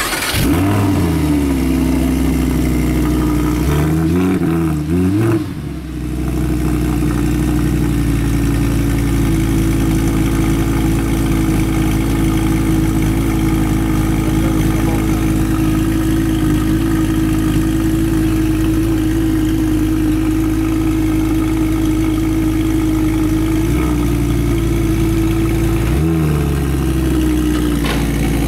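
2016 Audi R8's 5.2-litre V10 engine catching at the very start, its pitch wavering briefly about four to five seconds in, then running at a steady fast idle with a slight change in pitch near the end.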